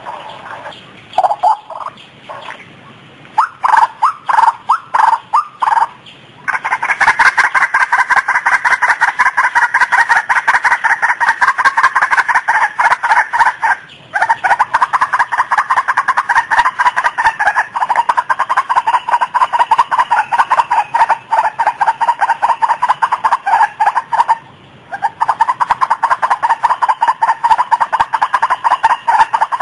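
White-breasted waterhen calling: a few scattered harsh notes at first, then from about six seconds in a fast, unbroken run of repeated notes that breaks off briefly twice.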